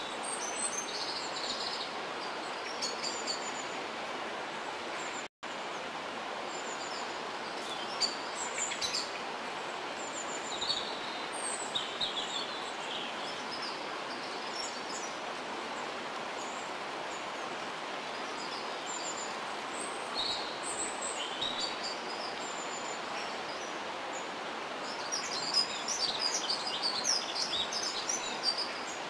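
Small birds chirping and calling on and off over a steady background rush, the chirps coming thickest near the end. The sound cuts out for a split second about five seconds in.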